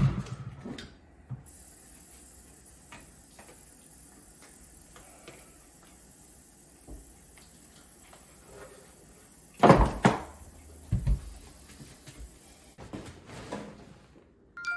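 Quiet room with scattered small clicks of handling, a loud knock about ten seconds in, and a few smaller knocks soon after.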